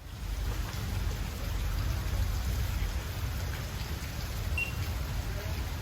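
Steady rushing and splashing of falling water from an indoor waterfall, with a deep low rumble under it. A short high chirp sounds once about four and a half seconds in.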